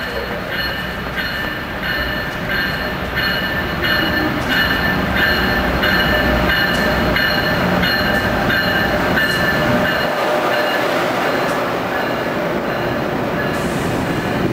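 Amtrak passenger train pulling into the station platform: the rumble of the train and its wheels grows louder as it nears, with a high ringing that repeats about twice a second, and the stainless-steel coaches roll past near the end.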